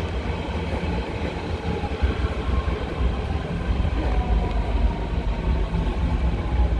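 Berlin S-Bahn electric train rolling past: a steady low rumble of wheels on rails, with a faint whining tone above it.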